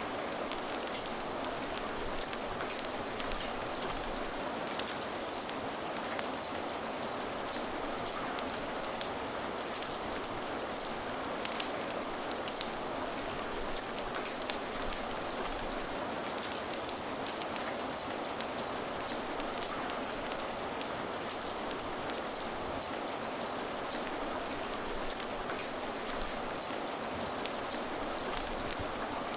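Steady heavy rain falling, a constant hiss with many small sharp drop ticks scattered through it, a few louder ones about halfway.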